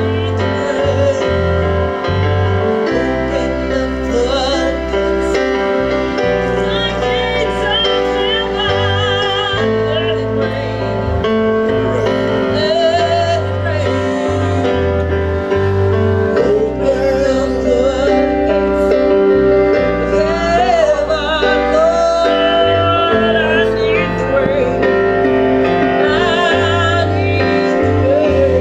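Gospel music: a singer with a wavering vibrato voice over held keyboard chords and a low bass line.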